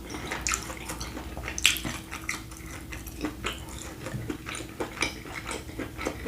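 Close-miked eating and handling of a saucy seafood boil: scattered small wet clicks, smacks and light clinks, irregular and fairly quiet.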